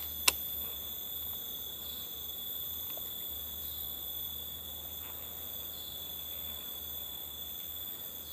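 A chorus of forest insects holding several steady, shrill high-pitched tones, with a single sharp click just after the start.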